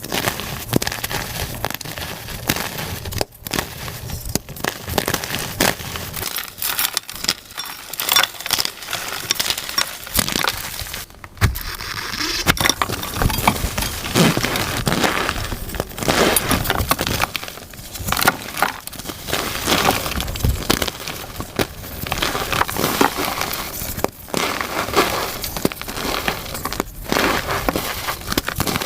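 Reformed gym chalk cakes being crushed and crumbled, a dense crunching and crackling full of sharp snaps, sped up to double speed. The sound breaks off abruptly several times where short clips are joined.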